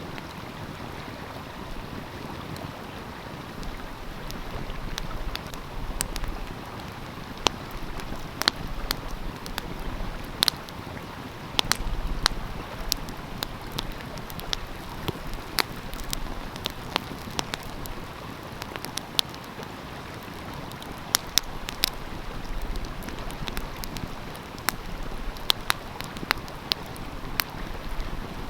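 Wood fire crackling, with sharp irregular pops, over the steady rush of a flowing stream.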